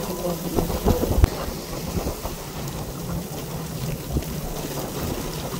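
Heavy rain pouring steadily, with a low rumble beneath it and a few short low thumps in the first second or so.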